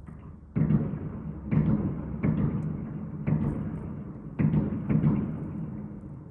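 Fireworks exploding: six deep booms, each trailing off in a long rumble before the next.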